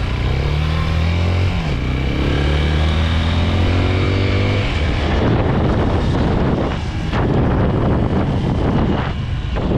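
Chinese 250 cc dirt bike's single-cylinder engine accelerating: the pitch rises, dips at a gear change about a second and a half in, and rises again until about halfway through. It then gives way to a rough, steady rush of engine and wind noise while riding.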